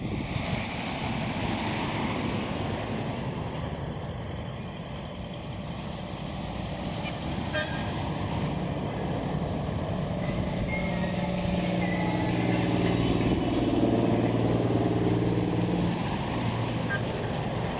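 A large truck's engine drives past, growing louder to a peak about three-quarters of the way through and then fading, its pitch shifting as it goes by. Heavy wind noise on the microphone runs under it all.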